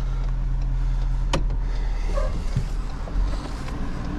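A motor vehicle's engine running steadily at idle, with one sharp click about a second and a half in.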